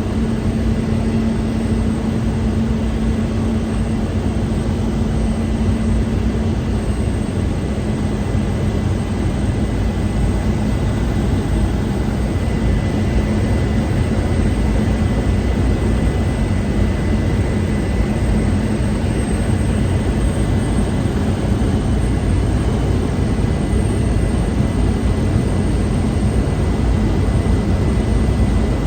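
Cabin noise of a Cessna 208 Caravan in flight: its single Pratt & Whitney PT6A turboprop engine and propeller running steadily, a dense even drone with a low hum and a thin high whine held throughout.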